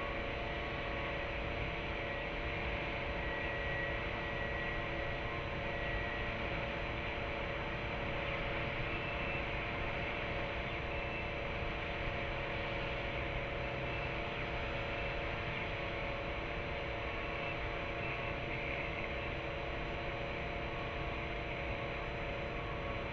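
Steady background hum and hiss, like distant traffic or building machinery, with a few faint short high tones. No bird calls stand out.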